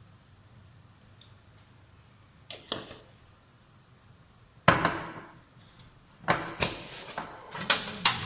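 Metal cooking utensil knocking and clattering against a pan while stir-frying beef with greens: a couple of knocks, a loud clank about halfway, then a quick run of clatter near the end.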